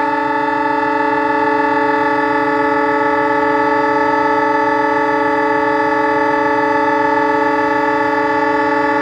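YDM-4 diesel locomotive's air horn sounding one long, steady blast of several tones at once, cutting off at the end, over a low rumble.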